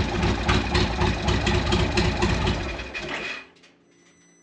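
2014 Victory Cross Country's V-twin engine running with a steady, pulsing beat, then stopping abruptly about three and a half seconds in.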